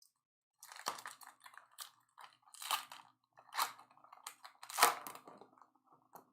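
Trading card packs and cards being handled: wrapper crinkling and cards rustling in several short, irregular bursts.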